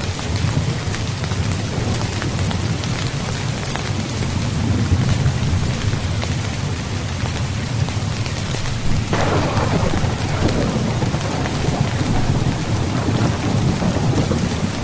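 Steady rain falling on a tent, with thunder rumbling low throughout. A sharper thunderclap breaks about nine seconds in and fades away.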